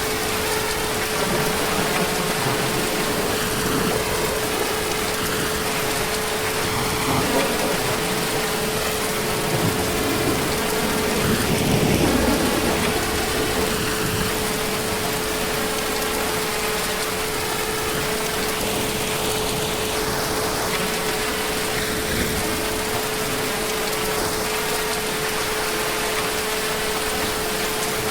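Heavy rain falling steadily, with a low rumble of distant thunder swelling briefly near the middle, and a steady hum underneath.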